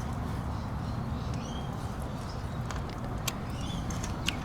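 Outdoor background: a steady low rumble, with birds chirping faintly now and then and a few sharp clicks in the second half.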